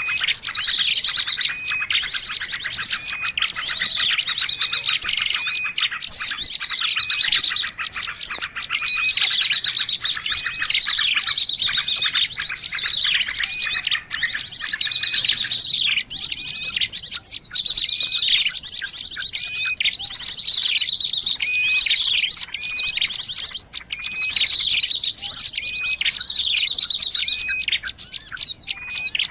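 Small songbirds chirping and trilling fast and high without a break, with short phrases repeating every couple of seconds: a recorded lure call (suara pikat) of the kind played to draw small birds in.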